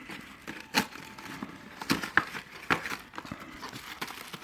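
Packaging of a pack of small fireworks fountains being crinkled and torn open by hand, in irregular short rustles and clicks.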